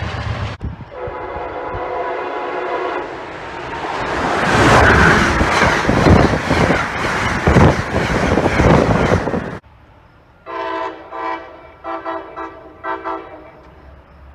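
Commuter train air horn sounding a chord, then a train passing at speed with loud rushing wheel and rail noise. After an abrupt cut, a horn gives a run of about five short blasts.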